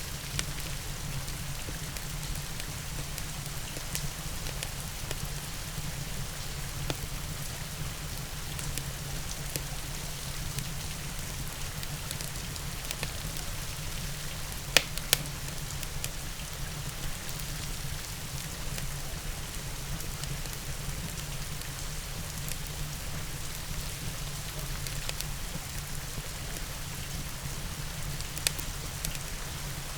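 Steady rain hiss mixed with a crackling wood fire. Scattered sharp pops from the fire stand out, with two loud ones in quick succession about halfway through and another near the end.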